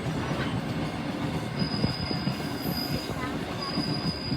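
Steam train's carriage running along the track, heard from on board: a steady rumble of wheels on rails, with a thin high wheel squeal that starts after a second or so, drops out briefly and comes back.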